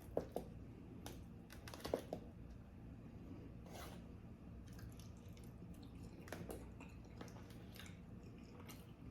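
Faint close-up chewing of pizza roll casserole, with short mouth clicks scattered through.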